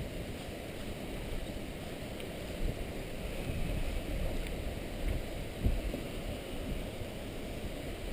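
Water sloshing around a kayak, with a steady rumble of wind on the microphone and a few soft low knocks.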